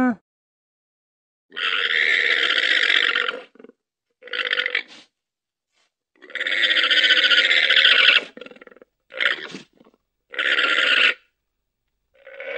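Llama making a series of harsh, unpitched, rasping calls: two long ones of about two seconds each and several shorter ones in between and after.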